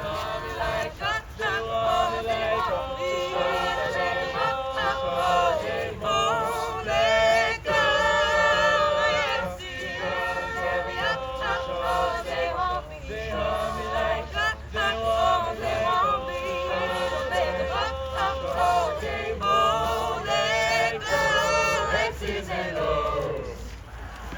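A group of voices singing together in harmony, unaccompanied, the singing dying away near the end.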